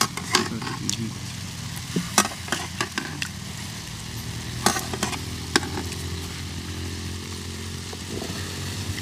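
Curry chicken sizzling in a pan, with several sharp knocks of a utensil against the pan and a low steady hum underneath.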